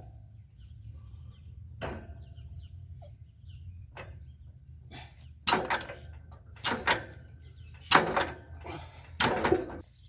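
Four loud metal-on-metal knocks with a short ring, spread over the second half, as steel tools work a seized gang nut on a disc harrow, over a low steady hum.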